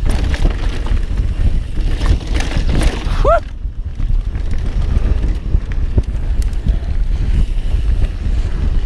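Mountain bike riding on a rough trail: steady wind rumble on an action camera's microphone with tyre noise and rattling knocks from the bike. A short rising-and-falling tone sounds about three seconds in.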